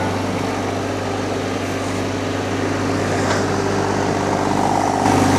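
Mini skid steer's engine running steadily under a heavy load, with a higher whine joining about four seconds in.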